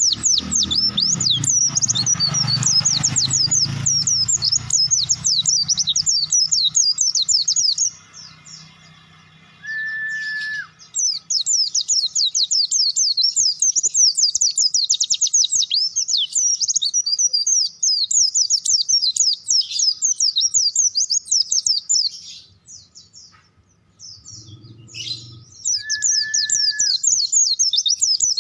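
Pleci (white-eye songbird) singing in full voice: a fast, high, chattering warble in long runs, broken off twice for a few seconds. A short steady tone sounds twice, about ten seconds in and near the end.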